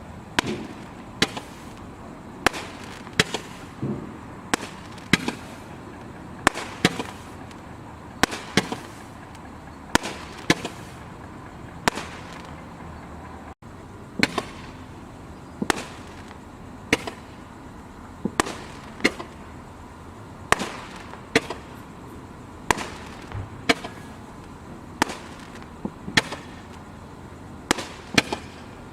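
Boomwow '8 Ball Two Colored Eyes' firework going off in a long run of sharp bangs, roughly one to two a second, each with a short echo.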